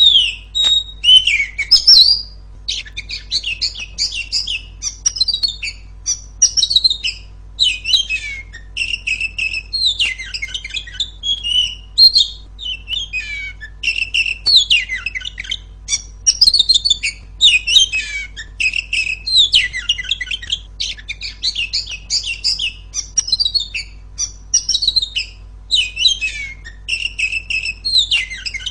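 Female oriental magpie-robin singing loudly in a continuous run of rapid, varied high-pitched phrases with quick up-and-down sweeps.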